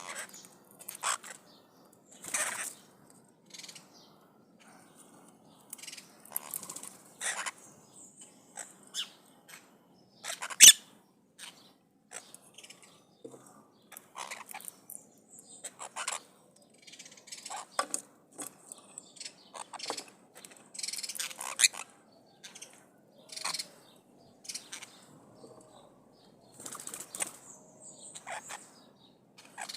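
Maritacas (small parrots) giving harsh, scratchy squawks at irregular intervals, with one much louder call about ten seconds in.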